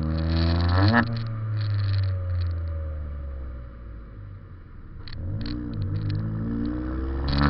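Ford Fiesta 1.0 EcoBoost three-cylinder engine heard through a Cobra cat-back performance exhaust while driving: the revs climb sharply about a second in, fall away over the next couple of seconds, and climb again from about five seconds in.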